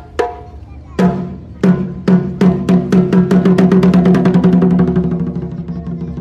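Japanese taiko drums: a few single strokes, then strokes that speed up into a fast roll, which swells and then fades near the end.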